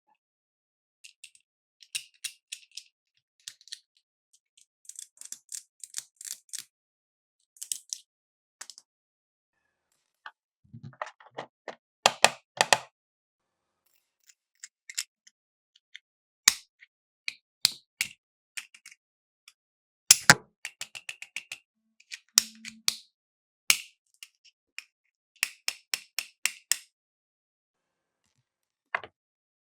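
Small plastic toy pieces of a toy cash register playset being handled: scattered clicks and taps, some in quick runs, with a few louder knocks about twelve and twenty seconds in.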